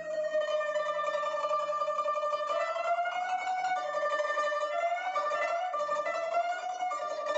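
Guzheng playing a slow melody, its long notes sustained by rapid tremolo plucking, with a few small slides between pitches.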